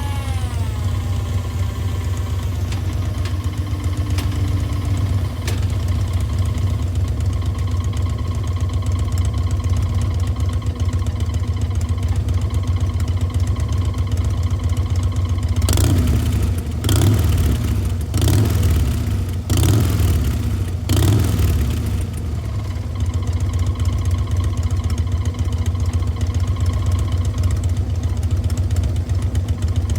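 Harley-Davidson Dyna Low Rider's air-cooled V-twin running through Chrome Works 3-inch slip-on mufflers, idling steadily. About halfway through the engine is revved in five quick blips of the throttle, then drops back to idle.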